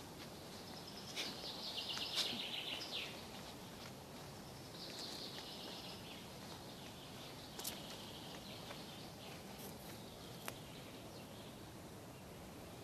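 Songbird singing: a fast trill about a second in, then another song phrase around five seconds in, with two sharp clicks later on.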